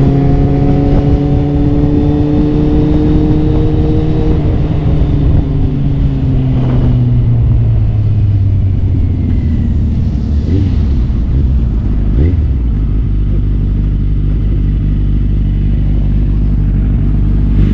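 Motorcycle engine running at speed with heavy wind noise. Its note holds, then drops around the middle, with a few short rising revs, and settles to a lower, steady note for the last few seconds.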